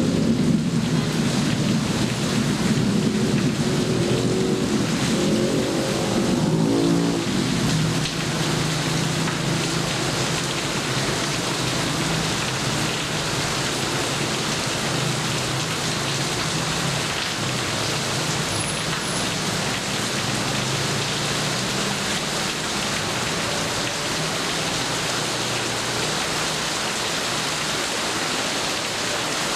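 Heavy rain falling steadily, with a low rumble of thunder in the first several seconds that dies away.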